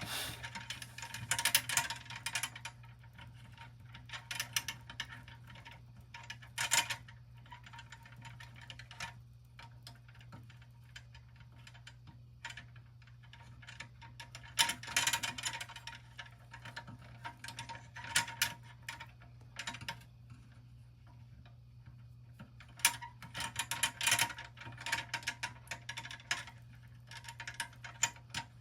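Scattered bursts of small clicks, taps and rattles from handling the toy tow truck's small parts while knotting and threading the hook cord, with quiet stretches between, over a steady low hum.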